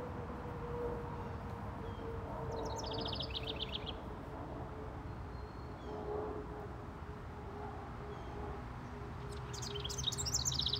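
Songbirds singing outdoors: a rapid high trill about two and a half seconds in and another near the end, with scattered faint chirps between. Under them runs a steady faint hum and a low outdoor background.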